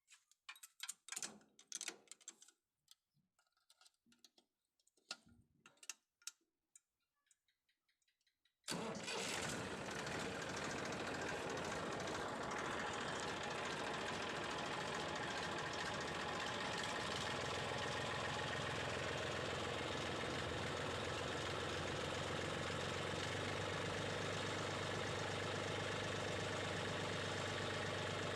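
Faint scattered clicks and knocks, then about nine seconds in a diesel tractor engine, a TAFE 45 DI, comes in suddenly and runs at a steady idle, with a low hum that grows stronger later on.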